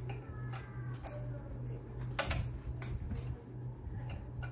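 Metal parts of a Kenwood electric meat grinder clicking and clinking as the stainless steel cutting plate is fitted into the grinder head over the blade, with one sharp metallic clink a little over two seconds in.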